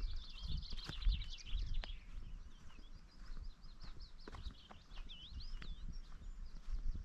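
Small birds singing: quick chirps and trills, busiest in the first two seconds and again around five seconds in, over a low uneven rumble of wind on the microphone.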